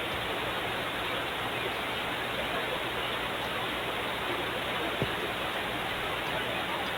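Steady rushing noise, like heavy rain or water, with a single short knock about five seconds in.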